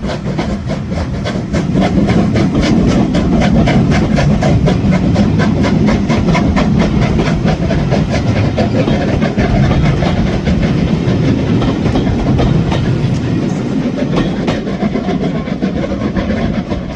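A train running past close by, loud and steady, with a quick, even clatter of about five beats a second. It grows louder about a second and a half in and eases off near the end.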